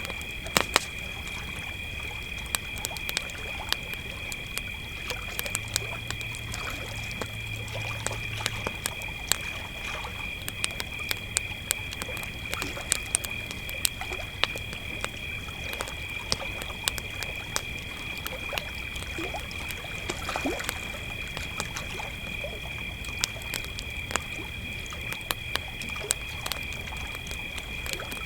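A steady, high-pitched chorus of crickets, with a campfire crackling and giving off sharp pops throughout.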